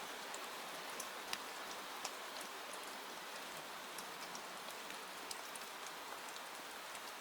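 Steady rain, an even hiss with scattered sharp drop clicks.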